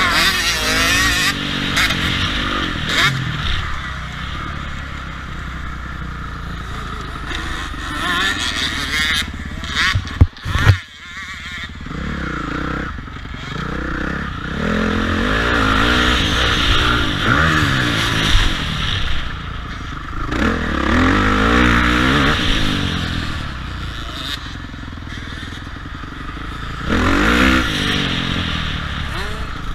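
Motocross bike engines revving up and down repeatedly as they are ridden through the gears on a track. A little after ten seconds there are two sharp, loud knocks.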